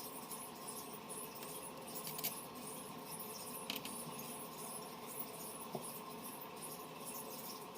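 Faint light scratching over a steady hiss, broken by three sharp clicks a second or two apart.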